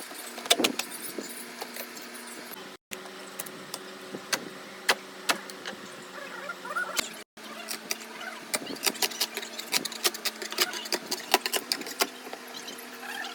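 Irregular sharp clicks and knocks of tool work on a sofa frame, coming faster in the second half, over a steady low hum. The sound cuts out abruptly twice.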